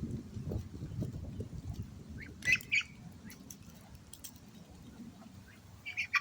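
Ducks giving short harsh squawks: a quick pair about two and a half seconds in and another pair near the end, over a low rustling.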